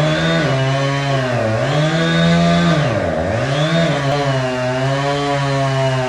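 Two-stroke chainsaw running hard while cutting wood, its engine pitch sagging about a second and a half in and dropping sharply about three seconds in as the chain loads up, then climbing back.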